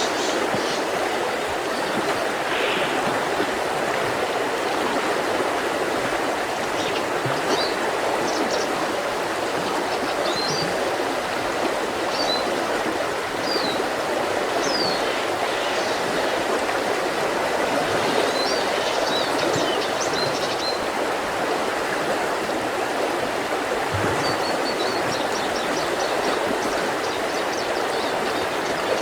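Mountain river flowing with a steady rush of water, while small birds chirp now and then above it, with a quick run of repeated notes near the end.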